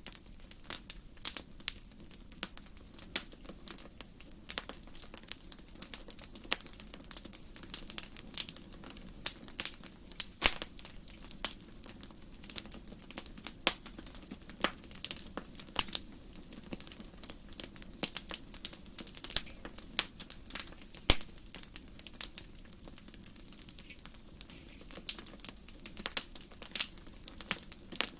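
Wood fire burning in a fireplace: irregular sharp crackles and pops over a steady low sound of the flames.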